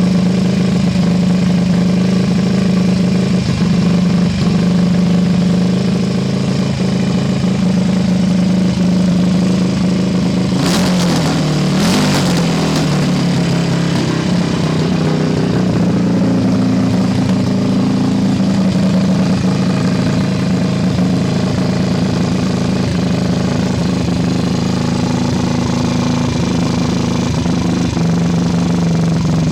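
Rebuilt Ducati 450 single-cylinder four-stroke motorcycle engine running steadily on a test run, with a brief shift in engine note and a burst of noise about eleven seconds in.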